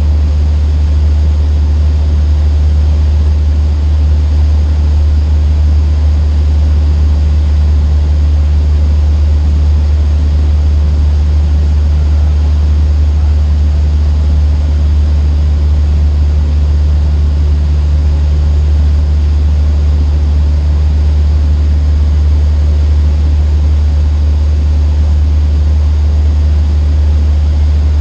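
Cessna 152's four-cylinder Lycoming piston engine and propeller running steadily, a loud, even low drone with hiss, heard from inside the cabin.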